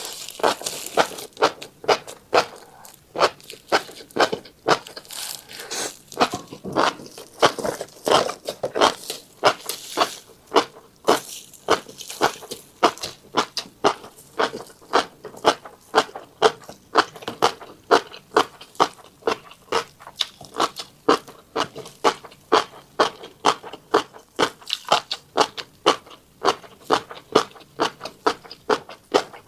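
Close-miked chewing of a mouthful of tiny black seeds: a steady run of crisp crunches, roughly two a second.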